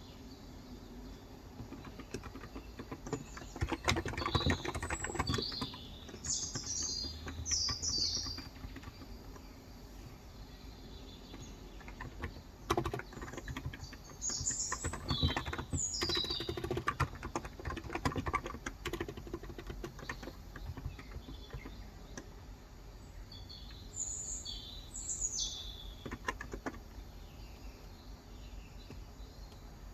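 Typing on a Cox Endeavor electro-capacitive (Topre-style) tenkeyless keyboard with 35 g switches, in three bursts of keystrokes with pauses between. Birds chirp outside in three short spells.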